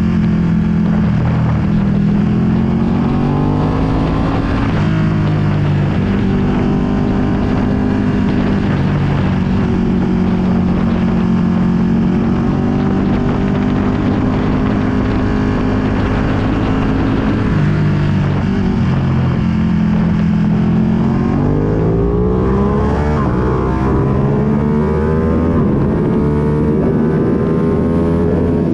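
Ducati Panigale V2's 955 cc Superquadro V-twin through a full Akrapovic exhaust, heard while riding: the engine pitch climbs, drops with a gear change about five seconds in, holds steady at cruise, eases off a few seconds before the middle of the second half, then climbs again under acceleration. Wind noise on the microphone runs underneath.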